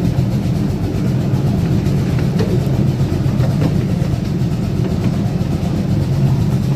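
Miniature live-steam railroad train in motion, heard from aboard: a steady rumble of the cars rolling on the track, with a few faint clicks.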